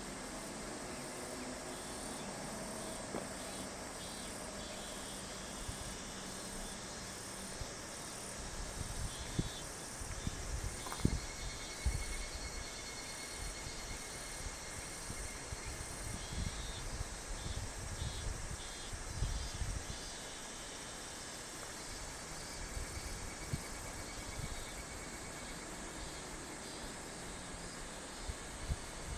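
Chorus of summer insects: a steady high-pitched buzzing with rhythmic pulsing trills. Irregular low rumbles come and go from about eight to twenty seconds in.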